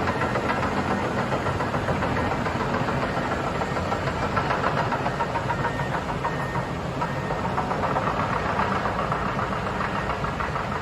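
Floodwater of a creek in spate, rushing and roaring steadily.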